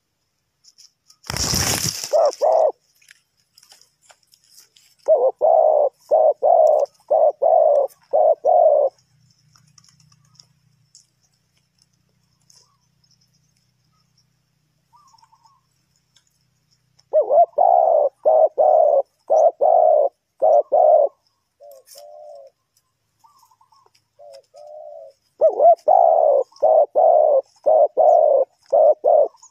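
Spotted dove cooing in runs of several quick coos, with pauses and a few softer single notes in between. A brief loud burst of noise comes just before the first coos.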